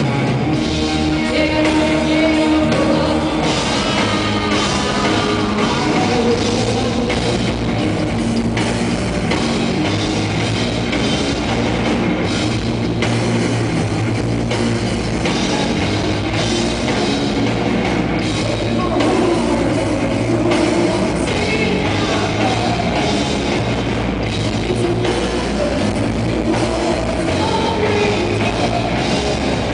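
A rock band playing live, with electric guitar, drums and singing, loud and continuous.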